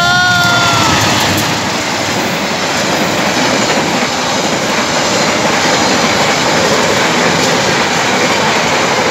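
Passenger train carriages passing close by, a loud steady rush and rumble of wheels on the rails. In the first second a train horn note falls slightly in pitch and fades out.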